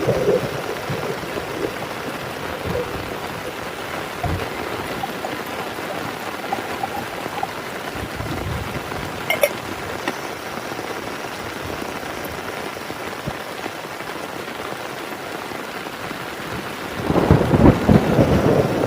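Heavy rain falling steadily, with a few sharp ticks of drops, then a loud rumble of thunder breaking in near the end.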